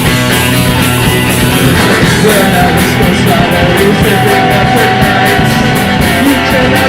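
Loud rock music from a full band, with drums keeping a steady beat that comes in about two seconds in.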